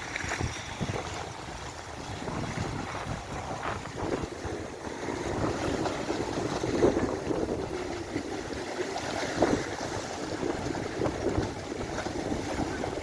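Strong, gusty storm wind buffeting the microphone, over the rush of a choppy sea.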